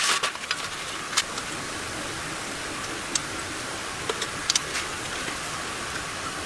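Steady hiss with scattered sharp ticks and clicks.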